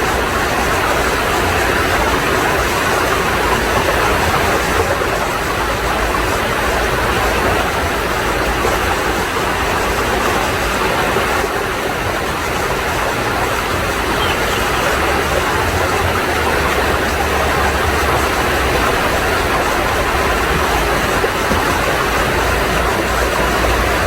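Stream water rushing steadily over rocks, an even hiss, with a low rumble underneath.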